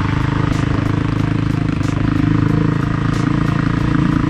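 Dirt bike engine running at steady revs, loud and even throughout.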